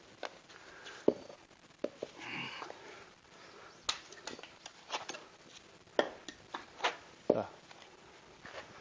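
Firewood being split with an axe: a series of separate sharp wooden knocks and clatters, a second or so apart, the loudest about a second in.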